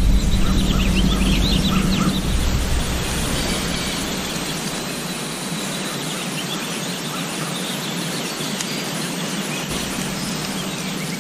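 Outdoor farm ambience: birds chirping over a steady hiss, the chirps clearest in the first couple of seconds. A low rumble fades out within the first few seconds.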